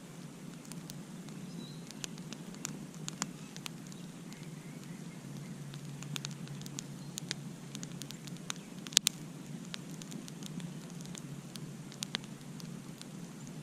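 Wood campfire crackling: irregular sharp pops and snaps, one much louder snap about nine seconds in, over a steady low rush of the burning fire.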